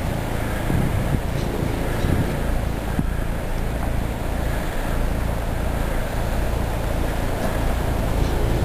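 A steady low rumble with faint held tones rising out of it now and then, offered as the mysterious trumpet-like 'strange sounds' in the sky.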